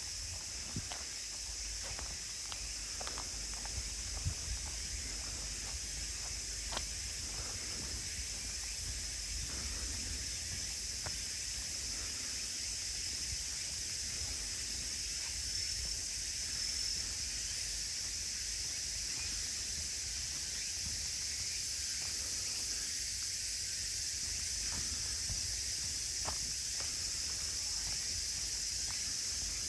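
Steady high-pitched chorus of insects, with a few faint footsteps on the path now and then.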